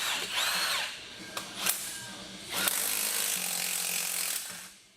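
Hand tools working against metal on the crankshaft pulley and bolt of a Toyota 2JZ engine: ratchet clicks and metallic squeaks, then a steadier run of mechanical noise in the second half that fades away near the end. The pulley is stuck hard.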